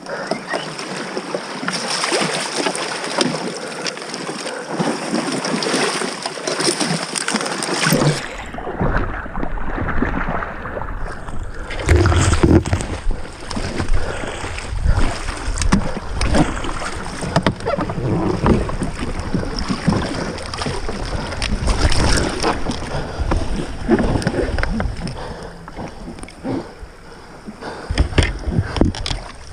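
A canoe being paddled along a river: irregular paddle splashes and water sloshing against the hull, with knocks, and deep rumble joining in about eight seconds in.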